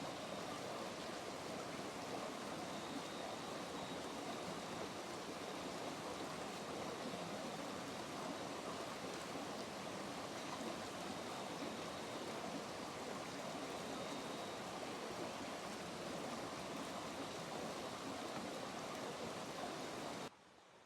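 Steady rush of flowing water, cutting off suddenly near the end.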